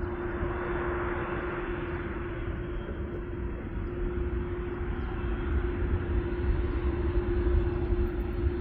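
Jet airliner's engines running steadily with a constant droning tone over a low rumble, growing a little louder near the end, as the aircraft approaches to land.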